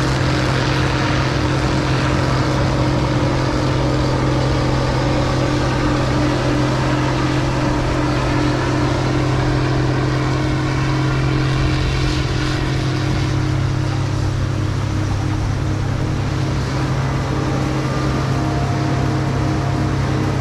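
Case International 16-series combine running steadily while harvesting: a constant low diesel engine drone with the machine's threshing and drive noise over it.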